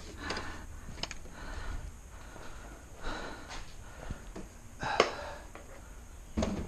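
Quiet handling noises from work on a car interior: rustling and scattered clicks, with one sharp click about five seconds in and another near the end.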